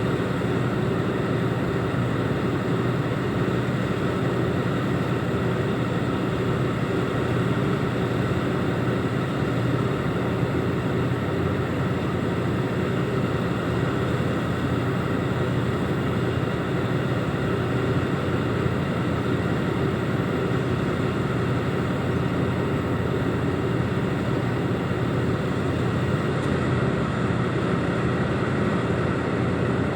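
Diesel engine of a container reach stacker running steadily at an even speed.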